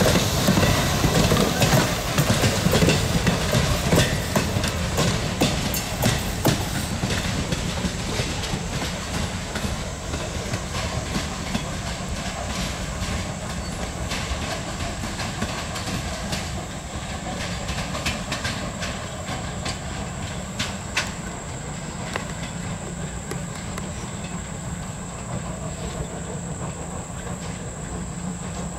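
Vintage passenger coaches of a steam train rolling past, their wheels clicking over the rail joints over a steady rumble; the clicks are dense at first, then thin out and the sound fades as the train moves away.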